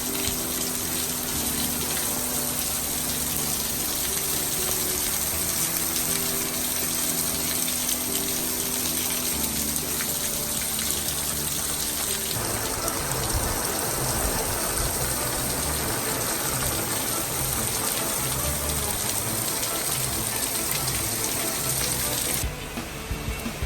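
Heavy tropical-storm rain pouring down in a steady, dense hiss, with gusts of wind, as a hurricane rain band comes through. Background music plays under it for about the first half.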